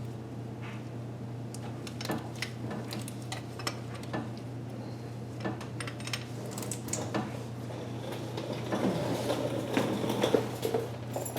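Hand tools and metal parts clinking and clicking irregularly while bolts are worked loose on an engine's intake manifold, with a steady low hum underneath. The knocks get busier and louder near the end.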